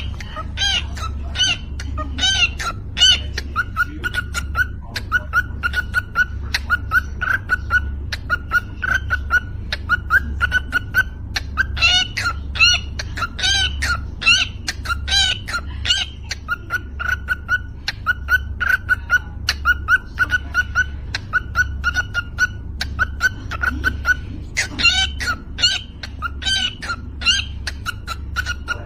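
Cockatiel giving rapid, rhythmic chirps, clicks and short whistles in quick repeated phrases, the vocal mimicry of beatboxing. A low bass pulse repeats at a steady beat underneath.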